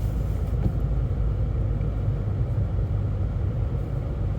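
Steady low rumble of a moving car heard from inside the cabin: engine and road noise at cruising speed.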